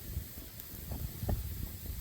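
Wind buffeting the microphone, an uneven low rumble with light hiss, with a couple of faint knocks about a second in.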